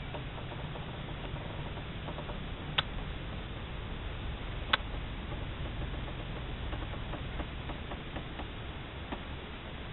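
Light drizzle ticking on a car's roof and glass, heard from inside the car over a steady low rumble, with two sharper clicks about two seconds apart.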